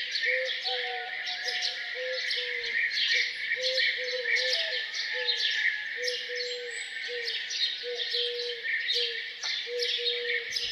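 Morning chorus of many small birds chirping and trilling densely over one another, with a low, short note repeated steadily about two to three times a second underneath.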